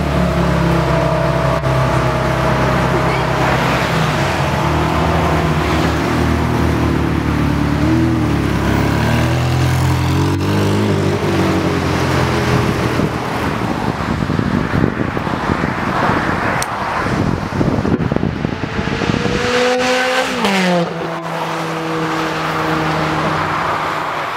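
Ferrari 360 Challenge Stradale's V8 running hard as the car passes and pulls away, its pitch wavering with the throttle, then climbing about twenty seconds in and dropping sharply at a gear change.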